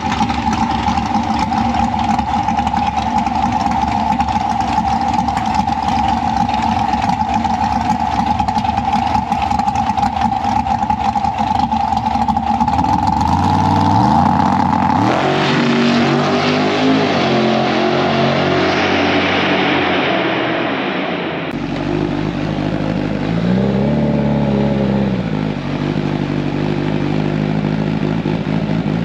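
Drag-racing motorcycle engines: a steady high-revving note is held for about half the time, then engines accelerate with rising pitch through gear changes. The sound changes abruptly about three quarters through, and another engine rises in pitch.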